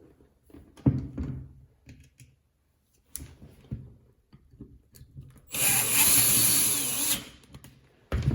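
Catpower 6120 electric die grinder switched on for about a second and a half at high speed with a high-pitched whine, then released and spinning down. Before it come a few knocks of the tool being handled, and a sharp clack comes near the end.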